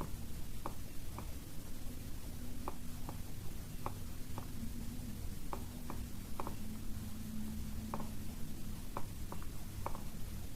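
Computer mouse clicking: irregular single clicks, a couple a second, over a faint steady low hum.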